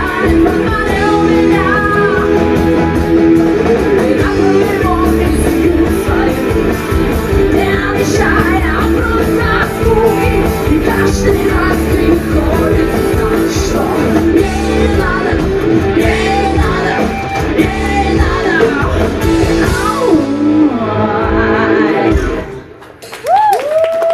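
Rock band playing live, with singing, electric guitar and drums. The music stops suddenly about 22 seconds in, followed by a brief burst of sound with gliding tones.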